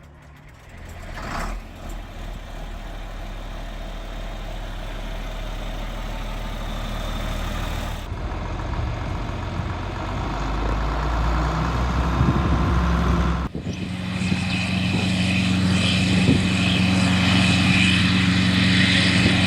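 Large diesel tractor engine running steadily, heard in a few joined clips that change abruptly about 8 and 13.5 seconds in. The last stretch is a louder, steady engine note with a higher steady tone over it.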